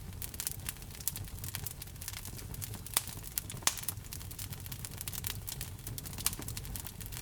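Wood fire crackling in a fireplace: irregular small pops and snaps over a low steady rumble of the flames, with two louder pops about halfway through.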